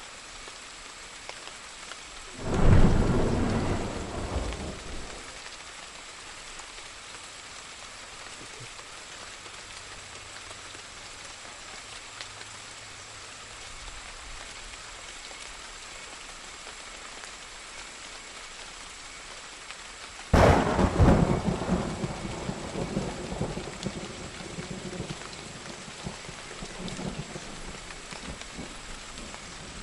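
Steady rain with two thunderclaps: a sudden crack about two and a half seconds in that dies away within a few seconds, and a second one about twenty seconds in that rumbles on longer as it fades.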